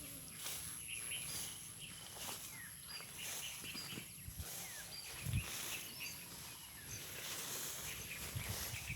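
Outdoor rural ambience: scattered short bird chirps over a steady, thin, high-pitched whine. There are a few low thumps, the loudest about five and a half seconds in.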